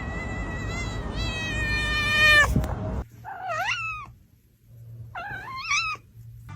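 A cat's long drawn-out yowl, held on one pitch for about two and a half seconds, cuts off suddenly. Two separate meows follow about two seconds apart, each bending up and down in pitch.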